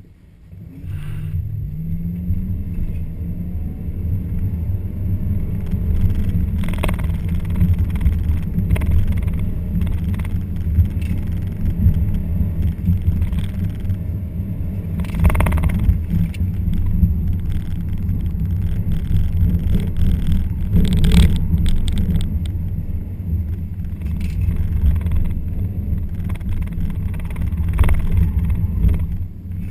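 Car engine heard from inside the cabin during an autocross run: the revs rise as the car launches about a second in, then it runs on under hard driving with a few short louder noises along the way.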